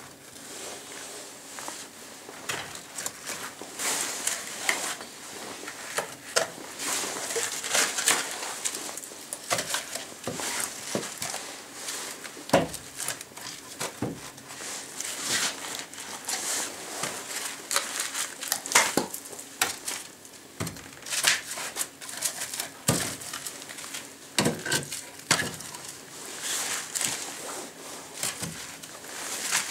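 Snow-covered, frozen wooden board offcuts being handled and stacked in a fireplace: irregular knocks and clunks of wood, with scraping and crunching of snow and ice.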